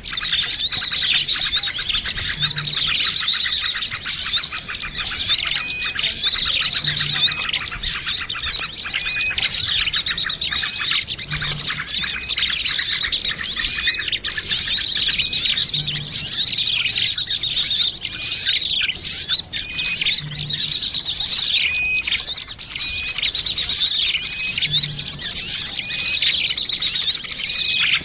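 Dense, busy chorus of many small birds chirping and twittering rapidly over one another without pause: a bird-lure (pikat) mix of small-bird calls.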